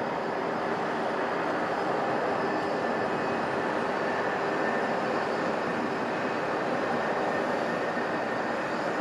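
Boeing 757-200's Rolls-Royce RB211 turbofan engines at takeoff thrust: a steady, loud jet roar with a faint whine, growing slightly louder.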